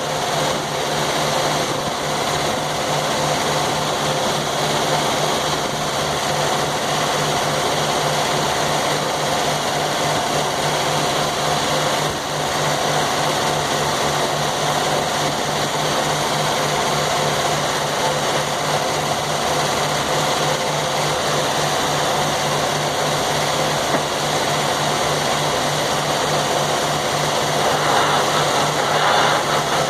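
Sawmill running steadily, its engine giving a constant drone with a strong low hum. Near the end the sound grows a little louder and brighter.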